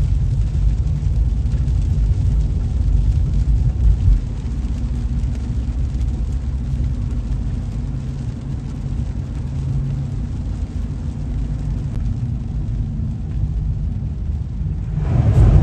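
Car interior while driving on wet roads: a steady low rumble of engine and road, with tyre hiss. A louder rush of noise swells up near the end.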